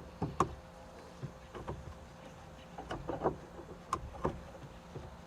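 Scattered light clicks and knocks, about seven spread through, from hands working on steering parts in a small truck cab.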